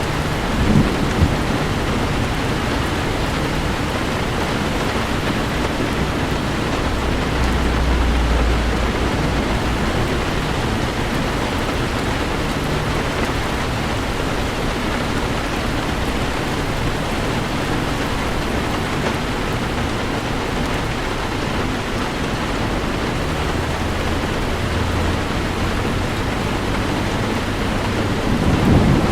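Heavy rain falling steadily on a car, with low rumbles of thunder about eight seconds in and again near the end.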